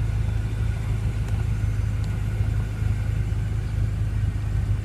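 BMW M5 (F10)'s 4.4-litre V8 idling, a steady low rumble heard from inside the cabin.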